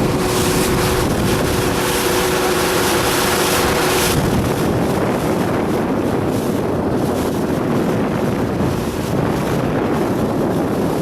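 Motorboat engine running steadily under wind buffeting the microphone. About four seconds in, a steady hum and much of the hiss drop off abruptly, and the engine and wind noise carry on.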